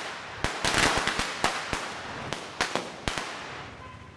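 Firecrackers going off: a quick run of sharp bangs with a crackling hiss, then a few separate bangs spaced apart, thinning out and fading before the end.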